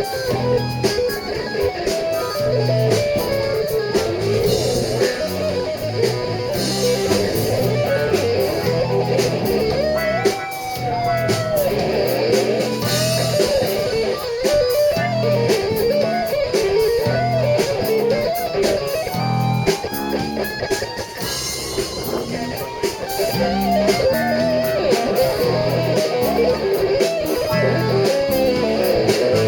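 Live blues-rock band playing an instrumental break, with an electric guitar solo of bending notes over bass and drums.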